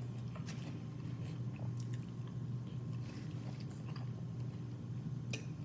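Close-miked chewing and mouth sounds of someone eating a sauce-dipped boiled egg from a seafood boil, with a few scattered wet clicks over a steady low hum.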